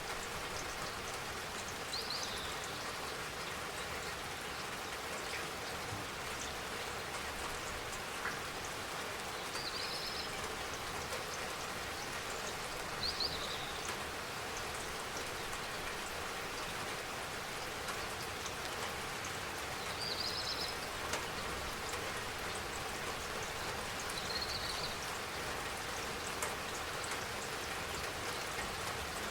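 Steady spring rain falling. Five short high chirps are spread through it, which sound like a bird.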